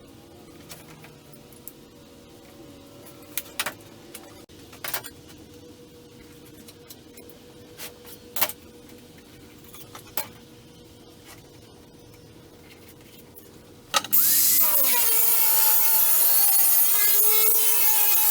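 A few scattered knocks and clicks over a low shop background, then about fourteen seconds in a power tool starts abruptly on steel, loud, with a harsh hiss and a wavering, dipping whine.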